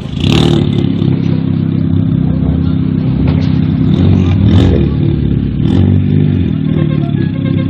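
Vehicle engine running with a few sharp exhaust pops: one at the start, then two more about four and a half and six seconds in.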